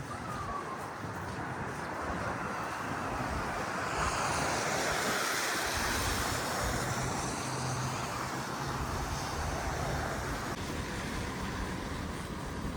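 City street traffic: vehicles passing with a steady hiss of tyres on wet, slushy pavement. A louder pass swells up about four seconds in, with low engine hum under it.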